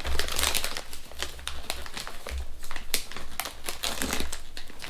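Plastic snack bag crinkling and crackling as it is opened and handled, a quick run of sharp crackles.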